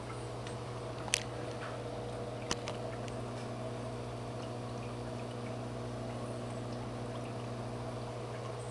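Aquarium filter running: a steady hum with water pouring and trickling. Two short sharp clicks come about one and two and a half seconds in.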